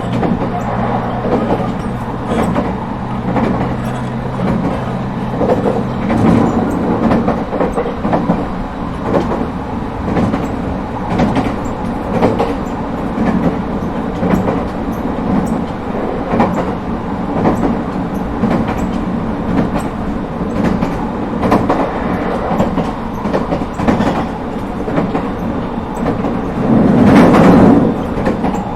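Onboard running sound of an ET127 series electric train, rolling along the line with rail-joint clicks. A steady low hum stops about six seconds in, and a brief louder rush comes near the end.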